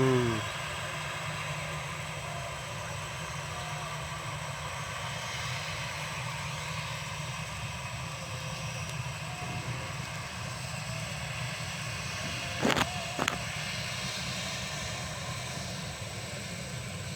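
Steady drone of an airliner in flight, heard from inside the passenger cabin: engine and airflow noise that holds an even level. Two brief sharp sounds come about thirteen seconds in.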